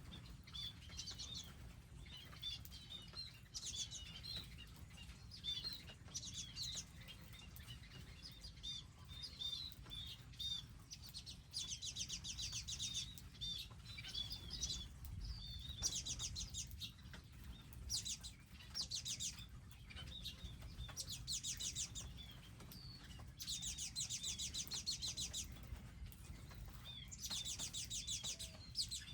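Several wild birds chirping almost without pause, with rapid high trills of a second or two breaking in several times.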